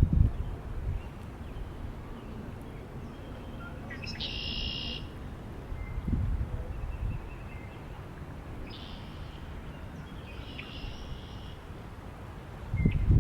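Birds calling over low wind rumble. The loudest call is a short burst of high notes about four seconds in, with softer calls around nine and eleven seconds. A gust of wind buffets the microphone near the end.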